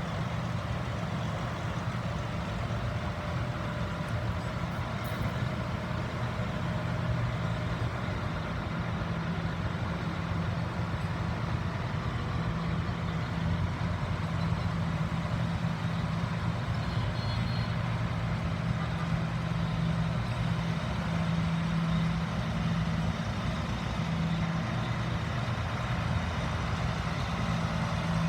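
Farm tractor engines running steadily in a low hum as tractors drive slowly past in a procession.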